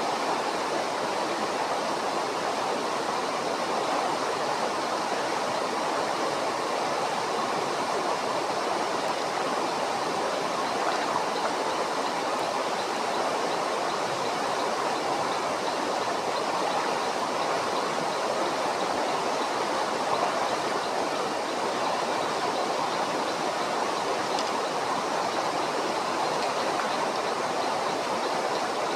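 Flowing stream water rushing steadily and evenly, with no distinct splashes or breaks.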